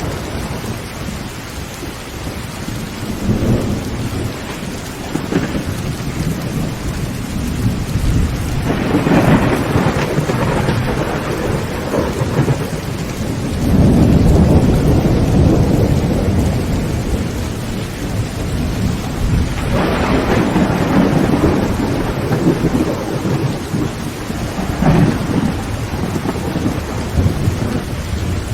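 Heavy rain drumming on a tin tent roof, with several rolls of thunder rumbling through the steady downpour, the loudest starting about halfway through.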